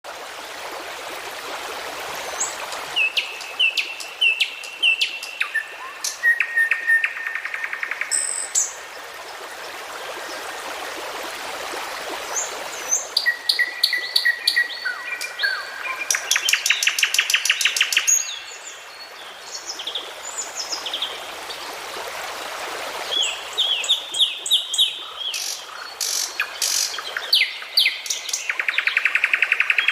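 Several songbirds singing and calling in turn: short whistled phrases, repeated chirps and fast rattling trills, with busier stretches around a quarter, half and near the end of the stretch, over a steady background hiss.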